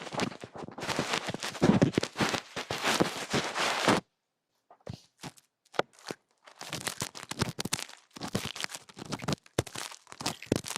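Close-miked ear-cleaning ASMR sounds: dense scratching and crackling made of many quick clicks. They cut to silence about four seconds in, come back as a few scattered clicks, and turn dense again near the second half.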